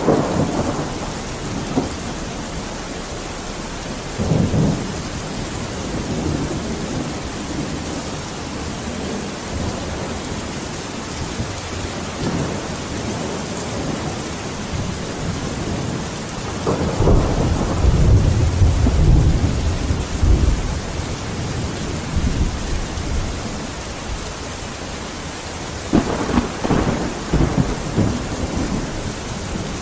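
Steady heavy rain hissing, with thunder rumbling several times; the longest and deepest roll comes about halfway through, and another rumble follows near the end.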